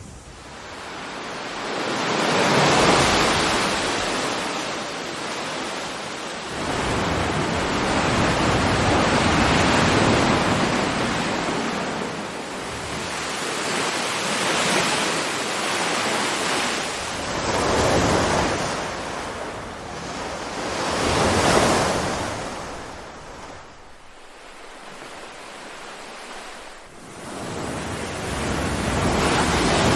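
Ocean surf: waves breaking and washing ashore, swelling and fading every few seconds, with a quieter lull a little past two-thirds of the way through.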